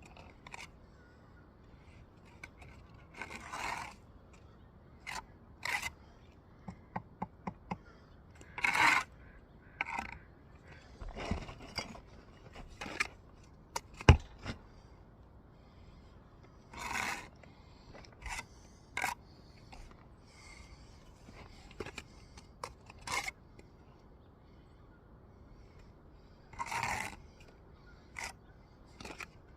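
Steel trowel scraping and spreading mortar on brick, in short strokes every few seconds, with a run of quick light taps and one sharp knock about midway as a brick is set.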